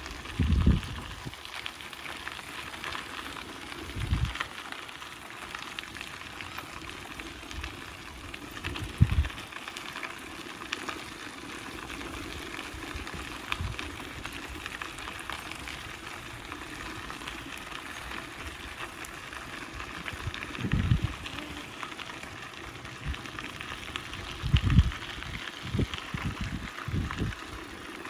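Steady rushing hiss of a bicycle ride, with wind buffeting the microphone in several low thumps, the loudest about a second in, around 9 seconds and near 25 seconds.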